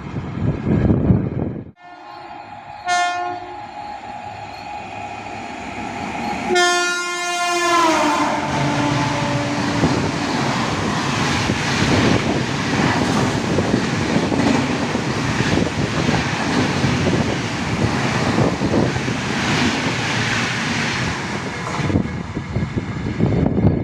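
Indian Railways express train sounding its horn as it approaches. The horn grows louder and its pitch drops as the locomotive passes, then the coaches rush by with a loud, steady rumble for about fourteen seconds before it cuts off.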